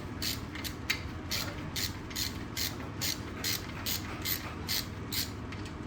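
A ratchet wrench being worked back and forth, a short burst of ratcheting clicks on each stroke, a little over two strokes a second.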